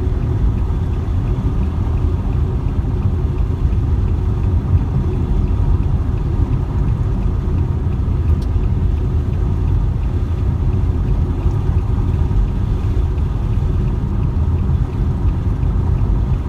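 Steady low rumble of a car on the move, road and engine noise with no breaks.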